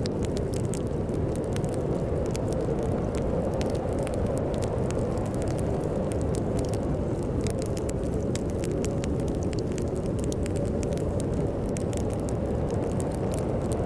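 A wood fire crackling with frequent sharp pops over the steady low rumble of a storm wind.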